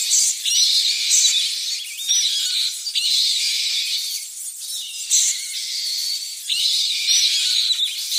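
A flying fox colony chattering and squealing: many overlapping shrill calls, swelling louder every second or so.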